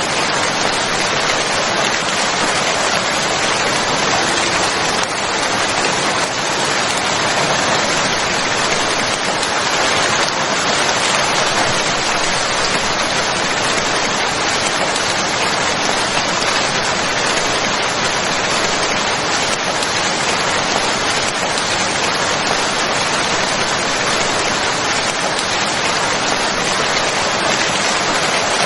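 Steady rain falling: an even, unbroken hiss with no pauses or separate events.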